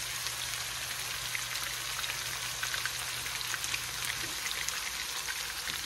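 Seasoned chicken thighs frying in hot olive oil in a skillet: a steady sizzle with small crackles and pops.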